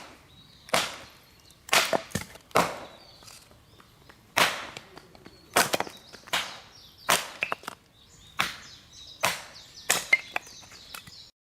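Wood being chopped: about a dozen sharp strikes, roughly one a second, ending abruptly near the end.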